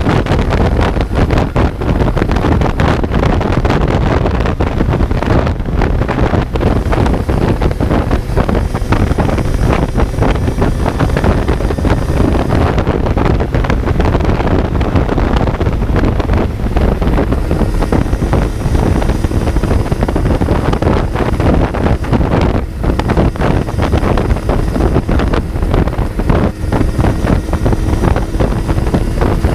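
Kawasaki Z900's inline-four engine running under way, with heavy wind rush on the microphone.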